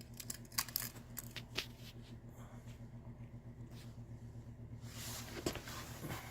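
A steady low hum from the diesel heater setup as it winds down in its shutdown cycle, with a run of light clicks and rattles in the first couple of seconds and a brief rustle about five seconds in.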